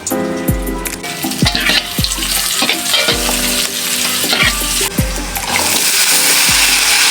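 Food sizzling and being stirred in a hot pan, the sizzle growing louder and steadier about five and a half seconds in. Background music with a steady drum beat plays throughout.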